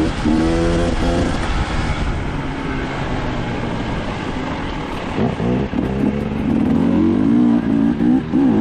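Dirt bike engine revving and easing off as the throttle is worked, pitch rising and falling, steadier in the middle and climbing again in the last few seconds.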